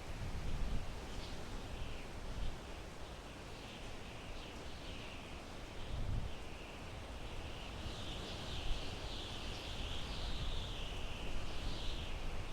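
Wind blowing through pine trees: a steady rushing hiss with low gusts that rise and fall. A continuous high, wavering sound runs in the background and grows stronger near the end.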